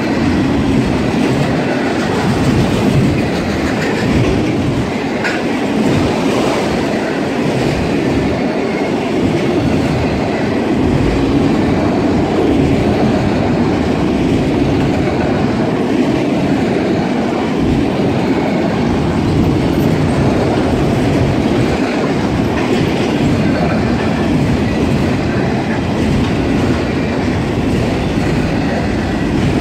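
Freight train of multilevel autorack cars rolling past at close range: a steady, loud rumble and clatter of steel wheels on the rails.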